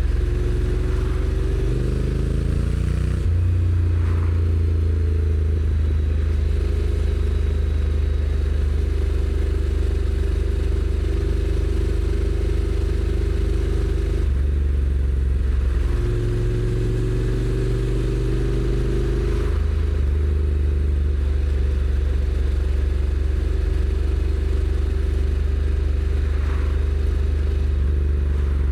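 A Honda NC750X's stock-exhaust parallel-twin engine pulling under way. Its note rises under acceleration, then drops as the dual-clutch transmission shifts up about three seconds in, and it holds a steady cruise. Around the middle it eases off, then rises again and shifts up once more before settling into a steady run.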